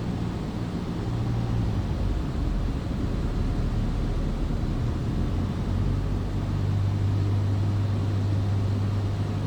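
Light airplane's engine and propeller droning steadily on final approach, a low hum under a rushing noise of airflow.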